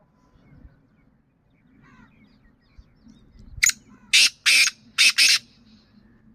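A bird giving four loud, harsh squawks in quick succession near the end, after a single sharp click.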